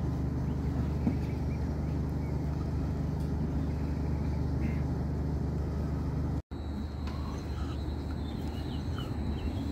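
Steady low hum with a few steady tones underneath, from the stationary train. After a sudden cut near the end, a MÁV Stadler FLIRT electric multiple unit rolls into the station with a low rumble and a steady high whine.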